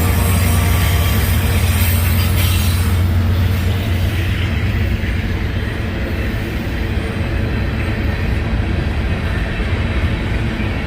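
Freight train rolling past, a steady heavy rumble of cars on the rails; the higher hiss of the wheels eases off about three seconds in.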